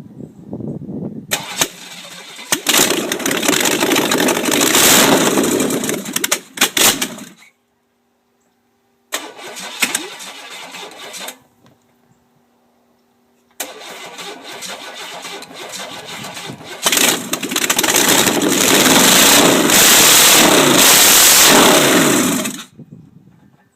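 Carbureted 350 Vortec small-block V8 in a homemade buggy on its first start: it fires and runs roughly in three stretches, stopping in between, the last and loudest lasting about nine seconds before it cuts out.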